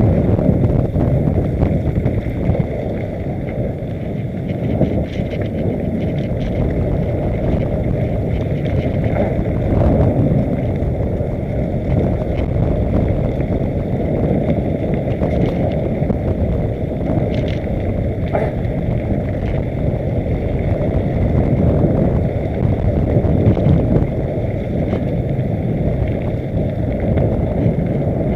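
Mountain bike riding downhill on a dirt trail: a steady low rumble of wind on the microphone and tyres on the ground, with scattered small clicks and rattles.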